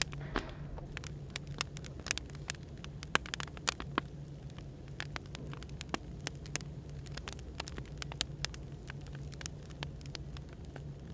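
Wood fire crackling, with irregular sharp pops and snaps, over a steady low hum of background white noise.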